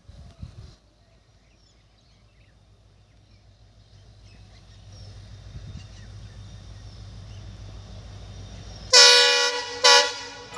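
An approaching train's rumble growing steadily louder, then the locomotive's horn: one blast of under a second near the end, followed at once by a shorter second blast.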